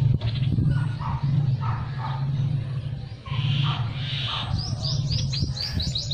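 Birds chirping, then a bird singing a quick run of falling whistled notes in the last second or two. A steady low hum runs underneath.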